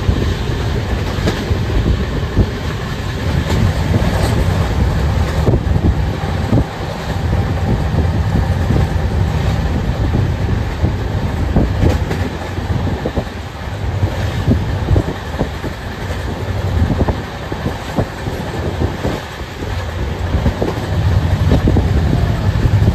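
Express train coach running on the track, heard from inside: a loud steady rumble of the wheels with irregular clacks and rattles.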